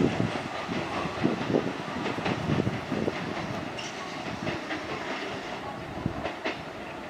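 Kintetsu electric train running on the track, its wheels clacking irregularly over the rails, the sound slowly fading as it moves away.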